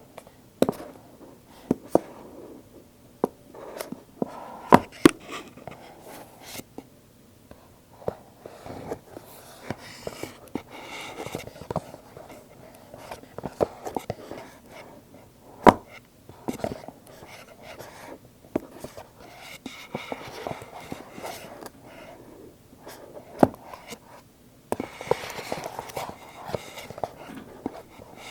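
Stiff cardboard Apple product boxes handled close to the microphone: irregular sharp taps and clicks, with a few longer stretches of rustling, scratching noise.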